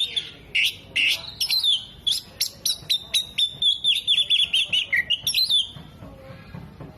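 Oriental magpie-robin singing a rapid run of sharp, high chirps and short whistled phrases, about three to four notes a second, breaking off near the end.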